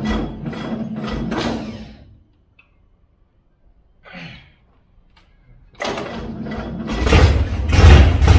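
Caravan engine being started, with fuel fed into it by hand: the starter cranks it in a steady rhythm of about three beats a second and stops after about two seconds, then on a second try about six seconds in the engine catches and runs loudly, revving, near the end. It runs with no exhaust system fitted.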